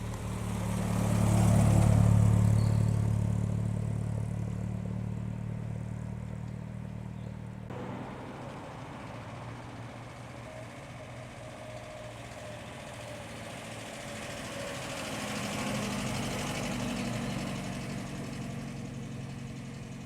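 Classic cars driving past one after another with their engines running. The first and loudest passes about two seconds in with a deep, steady engine note, and a second, quieter car goes by near the end.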